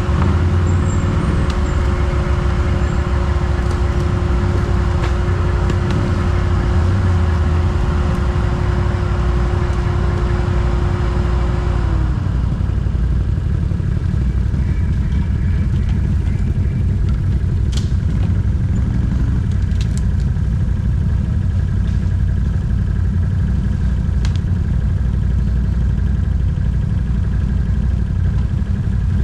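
ATV engine running steadily at low revs. A second, higher engine note holds steady, then drops away about twelve seconds in, leaving the low idle with a few faint clicks.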